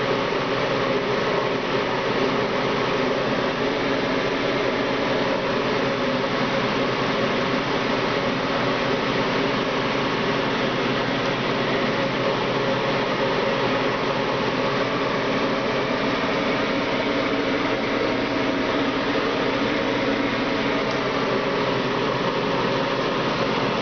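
Steady mechanical hum and whir with several held tones, like a ventilation fan or air-handling unit.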